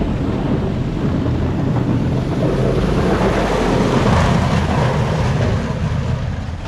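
Snow plow truck making a pass, its engine and blade pushing snow in a loud rushing noise that swells to its loudest about four seconds in and then eases.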